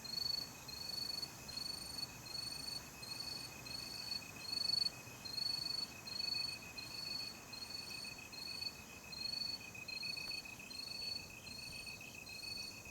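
Crickets at night: one chirps in an even rhythm of about two chirps a second, over another insect's steady unbroken high trill.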